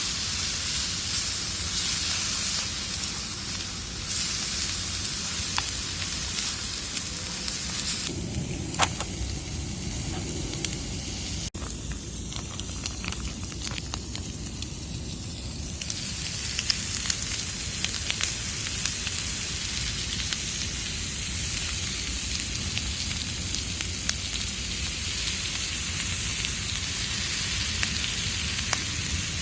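Food sizzling in a frying pan over a wood campfire, with sharp crackles and pops from the fire. The hiss of the sizzle drops away for several seconds about eight seconds in, then comes back.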